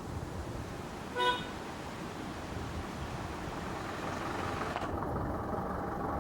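A single short vehicle horn toot about a second in, over steady engine and road noise.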